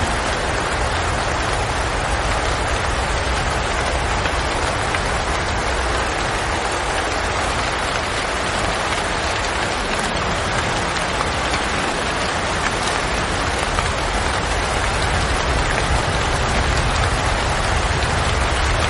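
Steady rain falling: an even, unbroken hiss of drops with a faint low rumble underneath.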